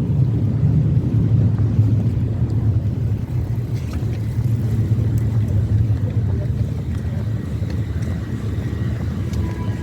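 City bus running, a steady low rumble of the moving vehicle that eases slightly after about three seconds.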